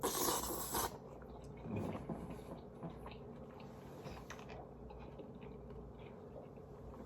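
Close-miked eating sounds: chewing and small mouth clicks from someone eating shrimp, chicken and rice. A louder crisp, rustling burst comes in the first second.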